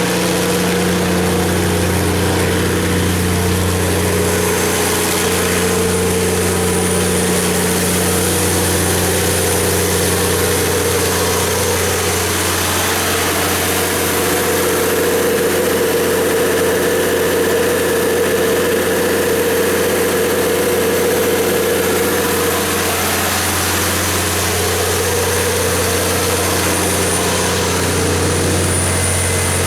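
Cummins KTA19-G4 19-litre inline-six turbocharged diesel engine of a 500 kW generator set running steadily at an even, unchanging speed.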